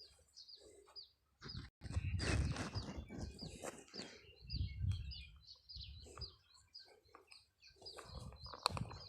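Small birds chirping, many short high calls repeated all through. There are low rumbling thumps and rustling of handling noise, loudest about two seconds in and again near the five-second mark.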